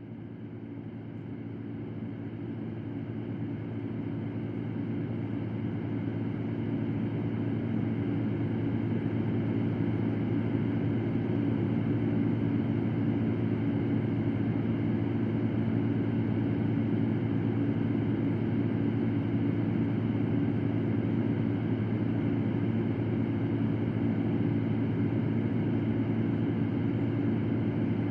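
Electric fan running steadily: a low hum under an even rushing hiss, fading up over the first several seconds and then holding level.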